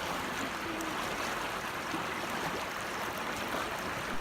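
Steady rushing of flowing water, like a stream, that cuts off suddenly at the end.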